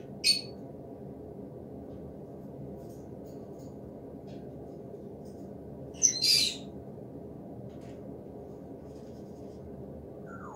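Two short, harsh bird squawks about six seconds apart, the second longer, over a steady low outdoor rumble, with a falling call right at the end.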